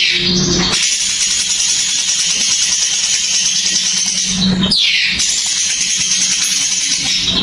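Sooty-headed bulbul (cucak cungkok) birdsong as used for masteran: a continuous, high rattling chatter, broken by a falling whistle about two-thirds of the way through.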